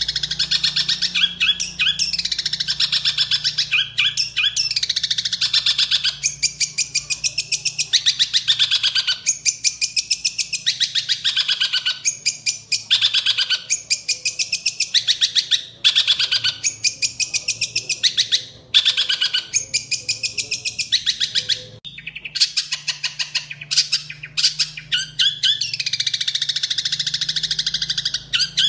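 Long-tailed shrike (cendet) singing loudly in rapid chattering phrases of one to two seconds, each a fast train of sharp notes with quick downward sweeps, broken by brief pauses. The song is filled with mimicked calls, which the title names as sparrow (gereja) imitations.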